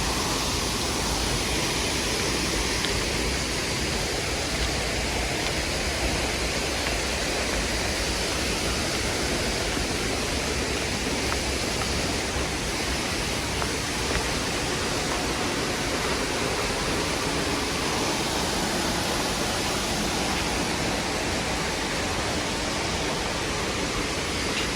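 A waterfall: a steady rush of falling water, an even wash of noise from low to high without a break.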